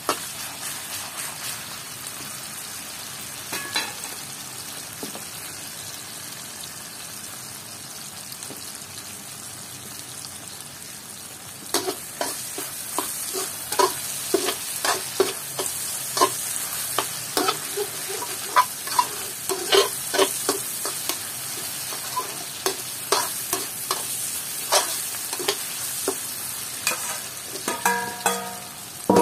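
Chopped garlic sizzling in a little oil in an aluminium wok, with a metal spatula scraping and tapping against the pan: the strokes are sparse for several seconds, then come quickly from about halfway on. Near the end a metal dish clinks against the wok as sliced red chillies are tipped in.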